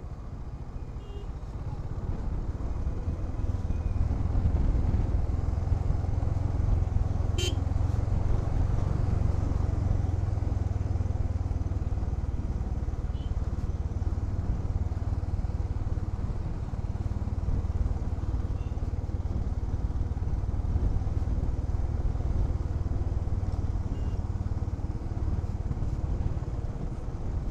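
Honda H'ness CB350's air-cooled single-cylinder engine running steadily as the motorcycle rides along, growing louder over the first few seconds and then holding. One sharp click sounds about seven seconds in.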